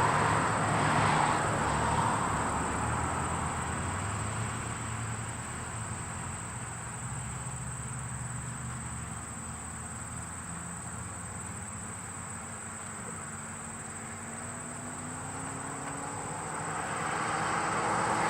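East Broad Top narrow-gauge steam train running on the mainline, a low rumble that fades over the first several seconds and grows louder again near the end, with a steady high thin tone throughout.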